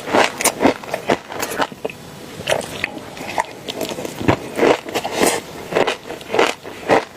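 A person biting into and chewing crunchy food: irregular, sharp crunches, a few each second.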